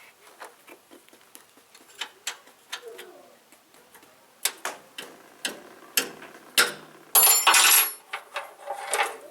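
Irregular knocks and clicks, a few a second, growing louder partway through, with a loud scraping rustle lasting most of a second about seven seconds in and a shorter one near the end.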